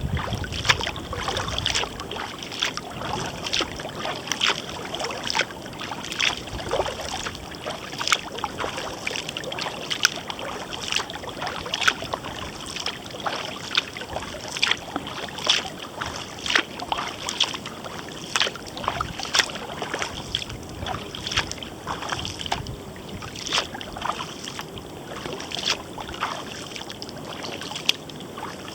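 Kayak paddle strokes: the blades dip into the water with short splashes and drips, repeating about once or twice a second.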